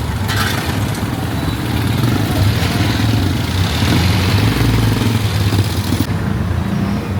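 A motor vehicle's engine running close by with a steady low hum, amid street traffic noise.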